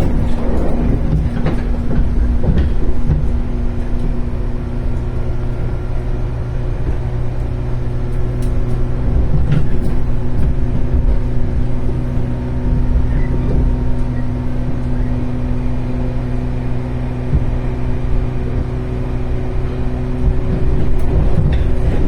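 Running sound of a 415 series 1500-subseries electric multiple unit, heard from inside the car: a steady rumble of wheels on rail with a constant motor hum, and an occasional faint click.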